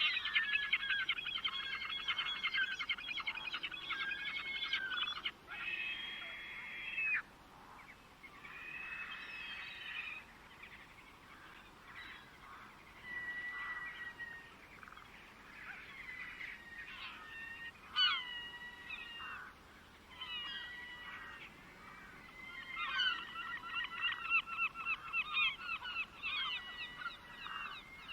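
Birds calling and singing, one call after another. A fast, chattering, repeated call fills the first five seconds and returns near the end, with shorter whistled notes and glides in between.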